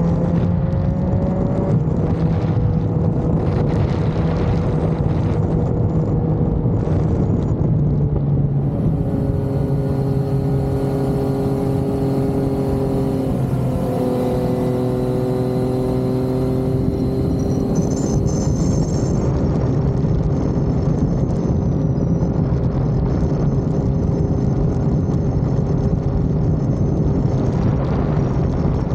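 Yamaha XSR900's three-cylinder engine running under way. Its pitch climbs in the first couple of seconds, then holds fairly steady, and the engine note changes about nine seconds in and again around fourteen seconds.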